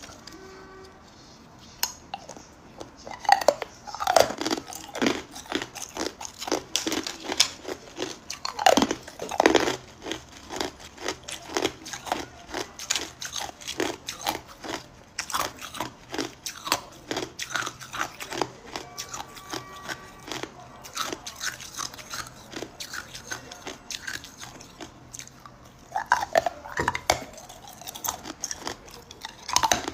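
Hard ice cubes being bitten and chewed: a dense run of sharp cracks and crunches, with the loudest bites about 3–4 seconds in, around 9 seconds and again near the end.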